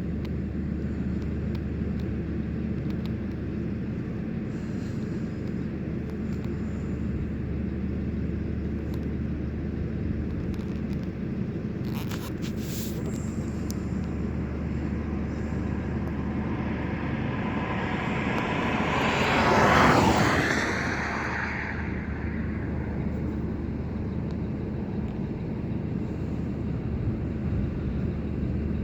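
A steady low engine hum, with a vehicle passing close by about two-thirds of the way through: it swells over a few seconds, drops in pitch as it goes past, and fades away.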